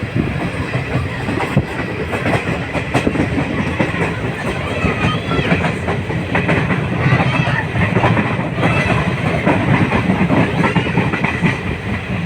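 Train running along the track: a steady loud rumble with irregular clicks and knocks from the wheels over the rails.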